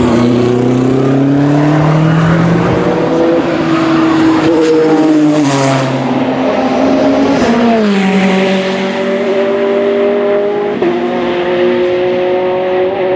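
Race car engines running hard on track. The engine note climbs and dips, drops sharply about eight seconds in, then holds steady.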